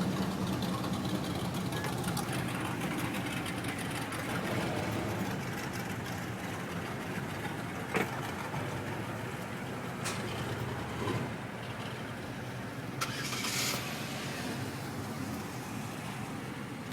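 Car engine running with a steady low hum, a little louder in the first couple of seconds. A single sharp click comes about eight seconds in, and a short hiss about thirteen seconds in.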